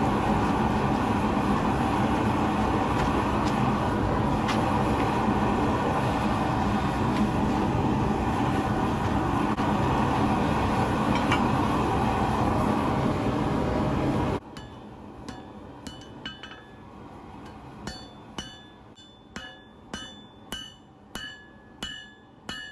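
A loud steady roar, then, after it cuts off about fourteen seconds in, a hammer striking steel on an anvil: about ten ringing blows, roughly two a second, as a knife blade is forged.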